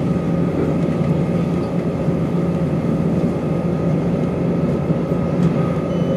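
Interior of a Class 170 Turbostar diesel multiple unit under way: steady running noise with a constant whine held on a few fixed pitches.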